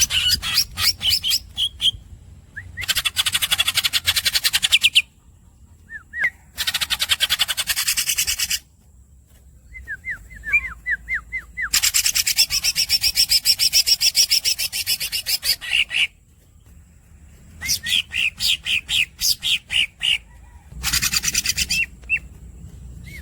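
Green leafbird (cucak ijo) singing: long, very fast rolling trills of two to four seconds each, alternating with runs of sharp, high squeaky chirps.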